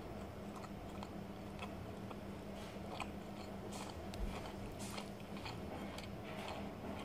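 Close-up chewing of a mouthful of noodles, with many small, irregular wet mouth clicks. A steady low hum runs underneath.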